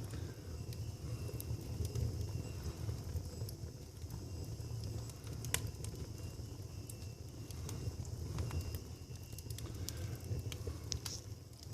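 Fire burning in a fireplace, crackling with scattered sharp pops over a low steady rumble.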